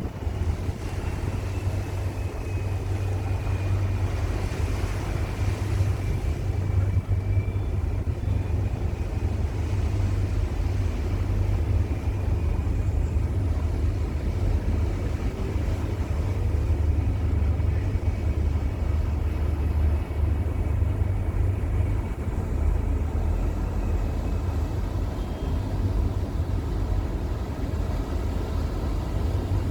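A Fjellstrand Flying Cat 40 m high-speed catamaran ferry's diesel engines running at low power while manoeuvring to berth, a steady low rumble. A faint thin whine glides slightly down in pitch over the first half.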